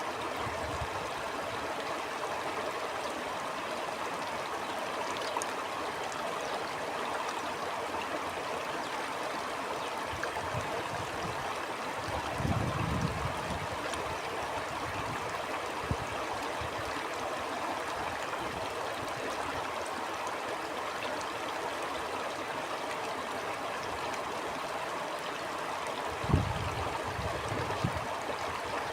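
A stream flowing steadily, a continuous rushing and gurgling of water, with two brief low rumbles, one about twelve seconds in and one near the end.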